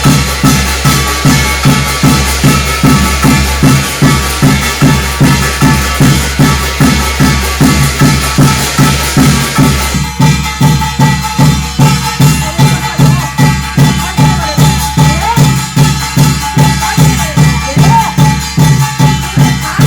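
Korean shamanic gut ritual music: a drum beating a steady rhythm of about two and a half strokes a second under a bright shimmer of metal percussion. About halfway the shimmer drops away and a wavering melody line comes in over the beat.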